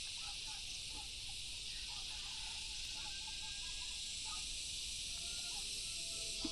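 A steady chorus of insects, high-pitched and unbroken, with scattered short faint chirps from other calling animals.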